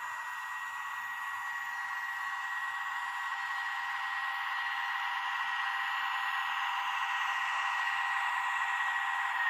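Small electric motor and gears of an N-scale model diesel locomotive running, a steady high whine that grows slowly louder as it draws nearer.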